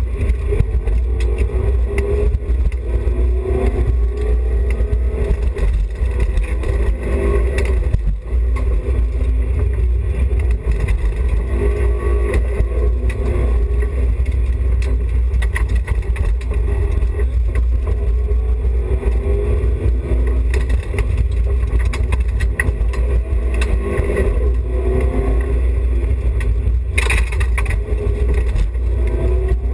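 BMW E30 316i rally car's 1.6-litre four-cylinder engine running hard under a heavy, steady low rumble. The revs climb and drop again and again as the car is worked between first and second gear. A short burst of harsh noise comes near the end.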